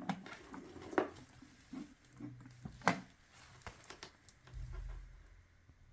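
Scattered small clicks and taps of handling at an electronics workbench, with two sharper clicks about a second and three seconds in and a short low rumble near the end.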